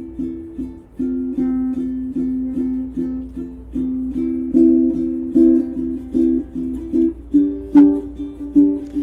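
A plucked string instrument strumming chords in a steady rhythm, about two to three strums a second, leading into a new chant.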